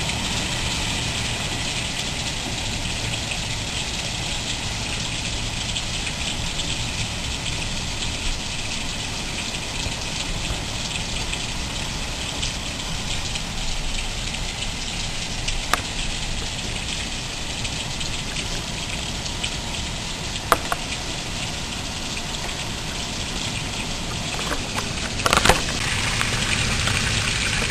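Heavy rain pouring steadily in a tropical storm, a continuous rushing hiss, with a few sharp clicks and a brief louder patch near the end.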